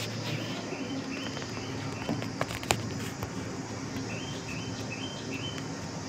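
Small birds chirping in short repeated calls over a steady high-pitched hiss, with a sharp click a little under three seconds in.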